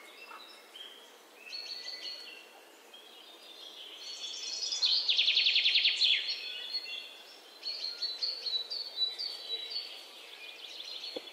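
Birds chirping and singing, many short calls and whistles overlapping, with a loud rapid trill about five seconds in.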